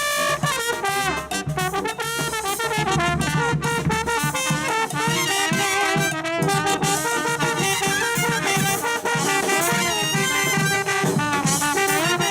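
Live brass band playing, with trumpets and trombones.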